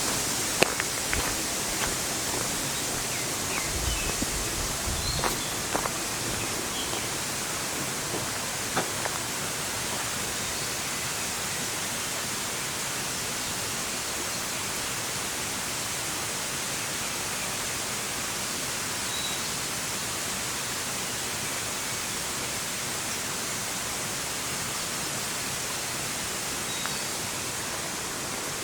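Steady rushing water, like a stream or outflow, heard as an even hiss. A few sharp crunches come in the first seconds, and faint short bird chirps sound now and then.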